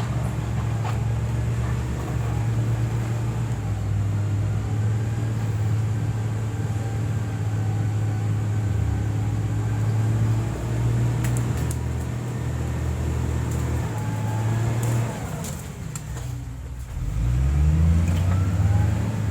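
Diesel engine of heavy road-building equipment running steadily under load. Near the end it eases off briefly, then revs back up with a rising pitch.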